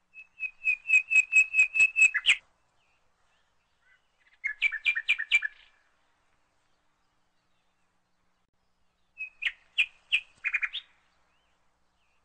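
Bird chirping in three short bursts of rapid, evenly repeated high notes, with pauses of a few seconds between them.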